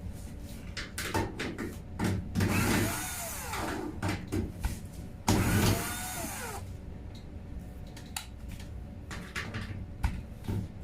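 A power drill-driver runs in two short spurts, each about a second and a half, its pitch rising and then falling, backing out fasteners to free a part of a Whirlpool HE washing machine. Sharp clicks and knocks of parts being handled fall between the spurts.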